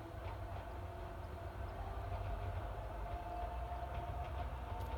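A Sangi Railway Hokusei Line narrow-gauge electric train running past at a distance, heard as a steady whine over a low rumble, with faint clicking from the wheels on the track. The whine grows a little stronger about three seconds in.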